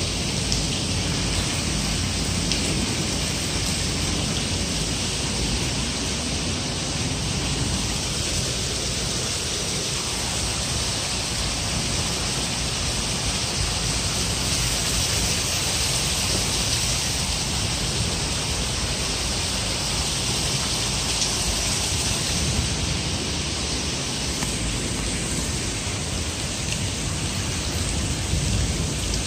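Heavy rain falling steadily, splashing onto a flooded concrete courtyard floor.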